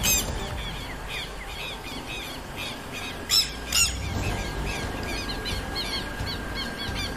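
Birds calling outdoors: a quick, steady run of short, high chirps, with two loud, harsh squawks about three and a half seconds in.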